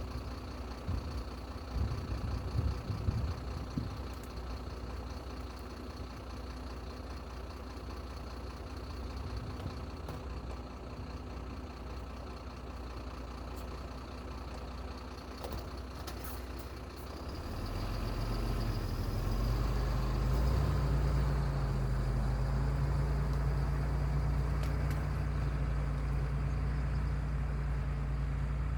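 Heavy machine's engine running at idle, then speeding up about 17 seconds in and holding at higher revs, louder and deeper.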